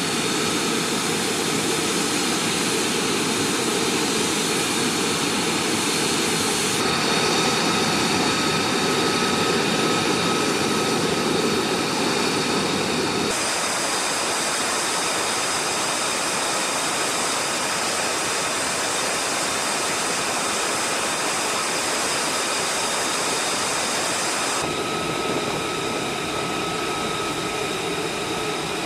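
F-35A Lightning II jet engine running: a steady rushing noise with a high whine. The sound changes abruptly three times, about 7, 13 and 25 seconds in.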